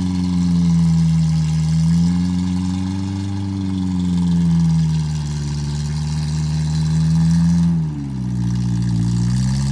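Off-road 4x4 vehicle's engine running, its speed rising and falling gently. It drops sharply about eight seconds in and climbs back near the end.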